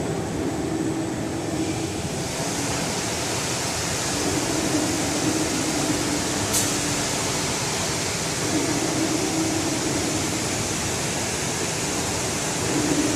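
Automatic screen washout booth running, its water spray nozzles giving a steady loud hiss that strengthens about two seconds in. A low hum swells and fades every few seconds, and there is a single click about halfway through.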